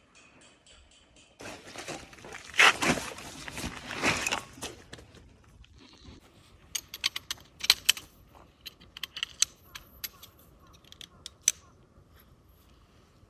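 Camping gear being handled: a few seconds of rustling, then a scattered series of light clicks and metallic clinks.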